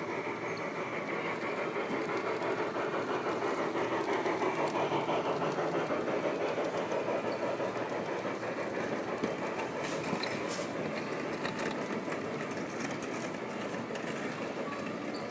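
Model trains running on a layout's track: a steady rolling noise that grows a little louder about four to six seconds in, with a few clicks later on.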